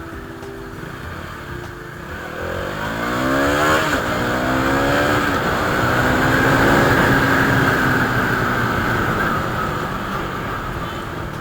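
Motorcycle engine accelerating hard from a pull-away: the pitch climbs steeply, drops at a gear change about four seconds in, climbs again, then settles into steady running, with wind rushing over the helmet-mounted microphone.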